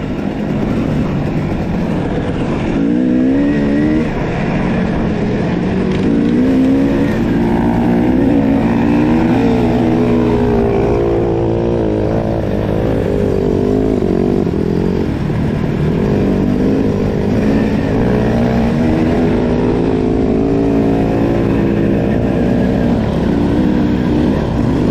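Dirt bike engines running under way, their pitch rising and falling repeatedly as the throttle is worked.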